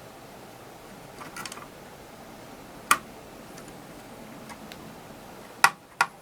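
A few sharp clicks and light taps from tools and hands working on a Dynaco SCA-80Q amplifier during disassembly: a short rattle about a second in, a single click near the middle, and two louder clicks near the end.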